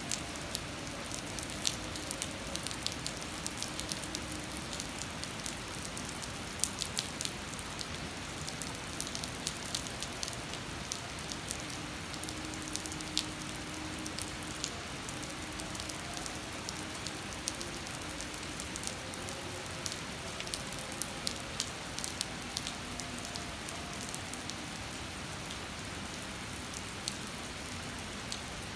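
Heavy rain falling steadily on wet, puddled pavement, with many sharp drop ticks close by. A faint wavering hum sits underneath at times.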